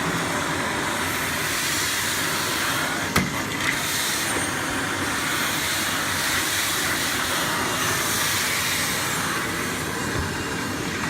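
Miele Blizzard CX1 Cat & Dog bagless cylinder vacuum cleaner running steadily with its hard-floor head on tiles, a not too loud, even hissing rush of suction. A single short click about three seconds in.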